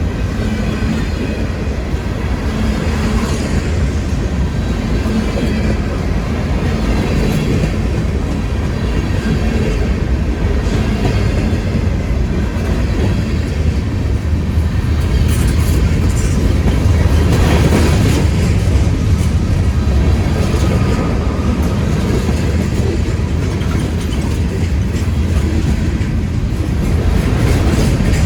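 Freight train cars rolling past, a steady heavy rumble of steel wheels on rail with clatter and clicks from the cars, swelling a little just past the middle.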